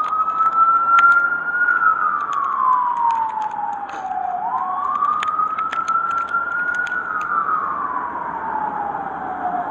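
Emergency vehicle siren in a slow wail, rising over about a second and a half and falling over about three seconds, twice through. Scattered faint clicks sound over a steady background hiss.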